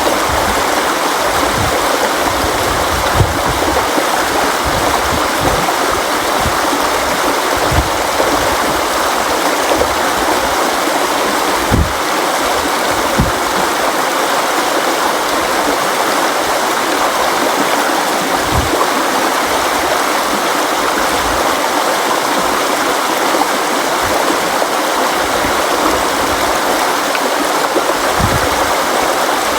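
River water flowing steadily in a dense, even rush, with brief deeper surges now and then.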